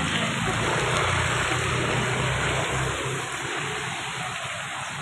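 Steady rushing of water, a bit louder in the first three seconds.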